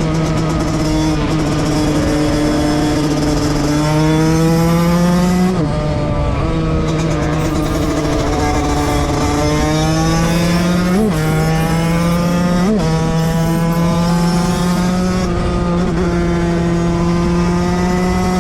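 Two-stroke motorcycle engine pulling hard at high revs, its pitch climbing slowly and steadily. About five and a half seconds in the pitch drops suddenly and climbs again, and two short blips follow near 11 and 13 seconds.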